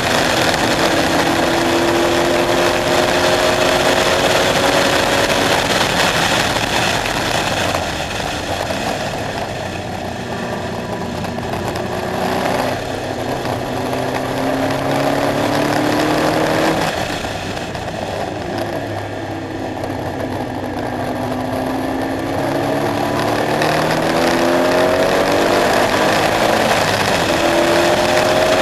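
KTM X-Bow's engine under hard acceleration, its note rising and stepping down at gear changes. It eases off twice, about a third and two thirds of the way in, then pulls hard again.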